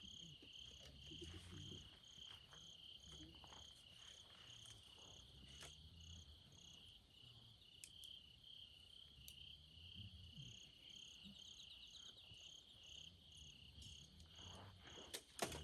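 Autumn night insects chirping faintly: one keeps up a steady, rapidly pulsing high trill throughout, while a second, higher-pitched one chirps regularly about three times a second, falling silent for a few seconds midway before starting again. A few faint clicks sound here and there.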